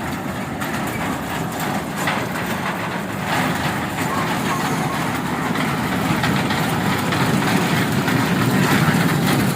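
A moving train running with a steady rumble, heard while riding it; it grows a little louder from about three and a half seconds in.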